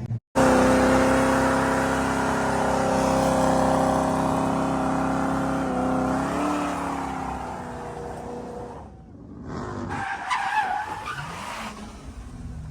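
A car engine held at high revs with tyres skidding, the pitch steady for about six seconds and then dropping. A rougher, shifting stretch of engine and tyre noise follows after a brief lull.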